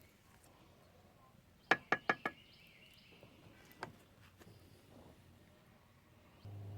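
Four quick sharp knocks on a hard surface, then a single knock a moment later. Near the end a steady low hum starts.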